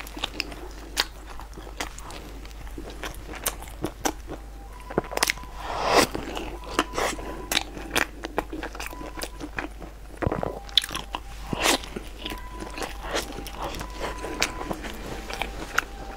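Close-up biting and chewing of a soft bread roll, with many small wet clicks and crunches, and a louder burst about six seconds in.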